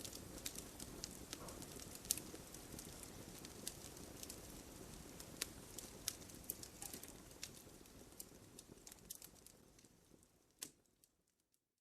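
Campfire crackling: scattered sharp pops and snaps over a soft low rustle of burning, fading out to silence near the end.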